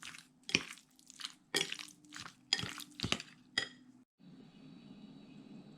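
Utensil clinking and scraping against a bowl as chicken is mixed in its marinade, about two clinks a second. After about four seconds it cuts off to a quiet room hum.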